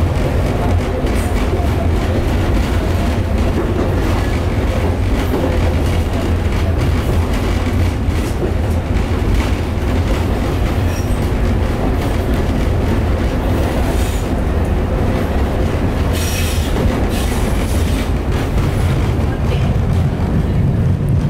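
Alishan Forest Railway narrow-gauge passenger car running, heard from inside the carriage: a steady low rumble of wheels on rails. About sixteen seconds in comes a brief high-pitched wheel squeal.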